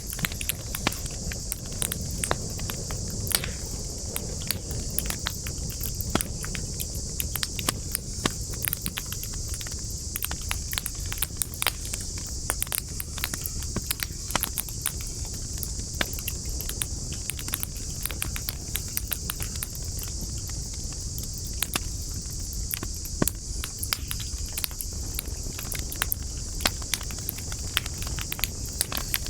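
Campfire wood burning with frequent sharp crackles and pops over a low rumble of flames. A steady high insect chorus runs underneath.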